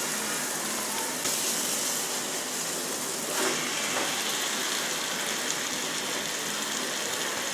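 Country-chicken pieces sizzling as they fry in hot oil and masala in a kadai, a steady hiss that swells slightly a couple of times.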